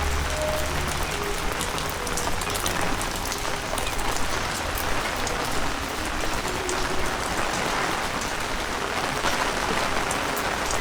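Heavy rain falling steadily, a dense hiss with many close drop impacts ticking through it. A low rumble underneath stops about a second in.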